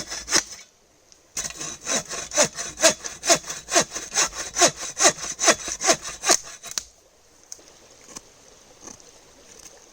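Hand saw cutting through wood: a few strokes, a short pause, then quick, even back-and-forth strokes, about four a second, that stop about seven seconds in.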